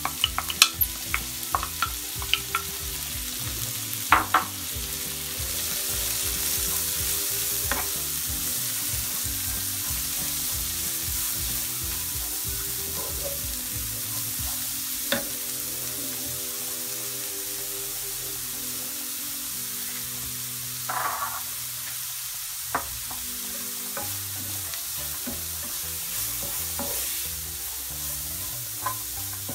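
Chopped leeks frying in oil in a frying pan, sizzling steadily while a wooden spoon stirs them. A few sharp taps come in the first seconds as the leeks are scraped in from a bowl, and the sizzle grows stronger about five seconds in.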